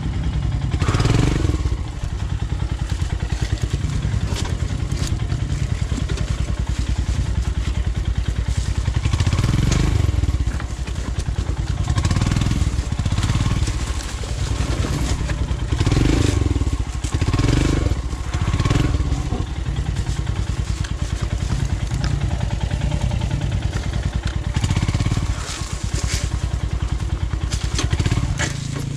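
Royal Enfield Himalayan's single-cylinder engine running at low revs with repeated bursts of throttle as the bike is ridden slowly through a tough off-road section, with some knocks and clatter from the bike over the ground.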